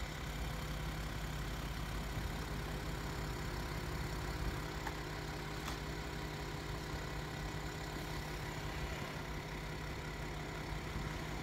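BMW 7 Series (F01) engine idling, a steady low hum.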